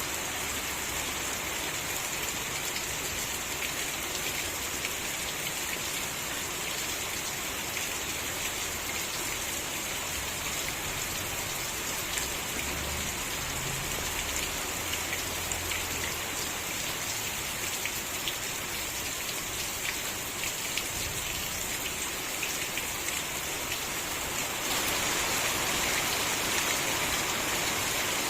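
Steady rain falling, with the patter of many separate drops; it grows a little louder near the end.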